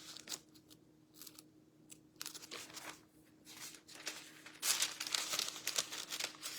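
Thin Bible pages rustling and crinkling as they are leafed through by hand, in quick bursts, loudest in the second half.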